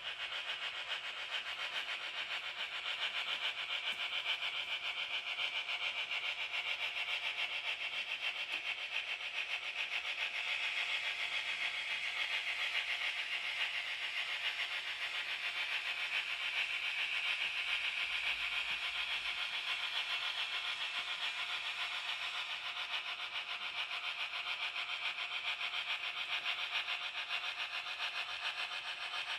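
Model train running on the layout: a steady whirring of the locomotive's motor and the wheels rolling on the rails. It grows somewhat louder in the middle as the train comes nearer, then eases off.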